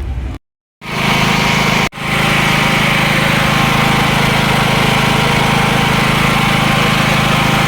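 A 7 kW petrol generator's engine running steadily under a constant load. A brief silent gap about half a second in and a short break near two seconds interrupt it.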